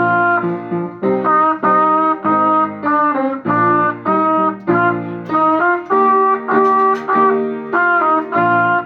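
Trumpet playing a melody in short, separate notes over a lower accompaniment.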